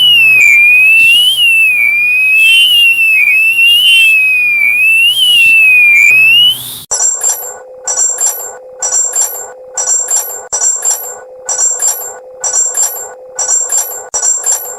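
Emergency-alert-style alarm tones: an electronic siren wailing up and down for about seven seconds, then cut off abruptly by a different alarm of repeated beeps, a little more than one a second.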